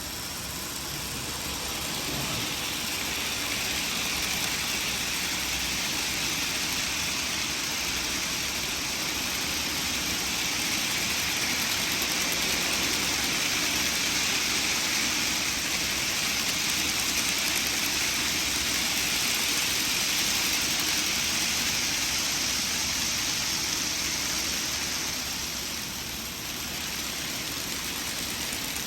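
N gauge model freight train running on the layout's track: a steady rolling rush of small wheels on rail with motor whine, swelling over the first few seconds and dipping briefly near the end.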